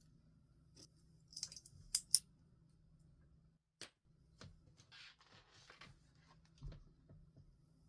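Paper and stationery being handled on a desk: two sharp snipping clicks about two seconds in, a single click a little later, then paper rustling and a soft knock near the end.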